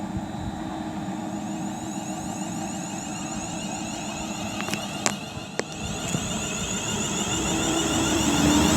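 Class 350 Desiro electric multiple unit humming at the platform, then starting to pull away, its traction motors growing louder toward the end with a rising whine. A couple of sharp clicks about five seconds in.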